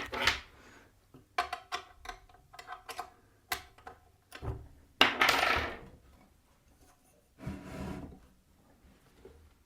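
Parts of a Parkside bench pillar drill being worked by hand, with a run of metal clicks and knocks and then a longer scraping rub about five seconds in and a shorter one near the end. The loose parts have a lot of play.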